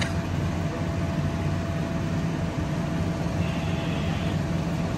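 Passenger train hauled by a Siemens SC44 Charger diesel locomotive pulling away from the platform: a steady low rumble with a faint constant hum above it.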